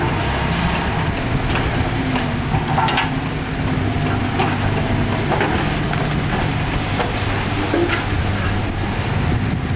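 Diesel engine of heavy earthmoving machinery running steadily, with scattered sharp clanks and crunches over it.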